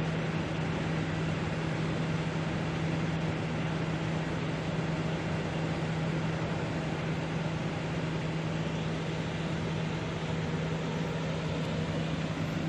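Steady mechanical hum over an even rushing noise, with no change in level or pitch.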